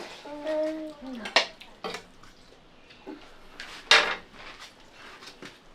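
A few sharp clinks of dishes and utensils, the loudest about four seconds in, with a quiet voice in the first second.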